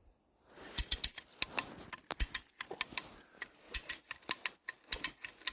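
Hand winch ratchet clicking in quick, irregular runs as it is cranked, tensioning the rope that pulls the bore-cut tree over.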